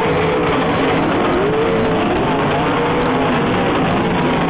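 Sprint car V8 engines running loud and steady at racing revs, their pitch wavering up and down.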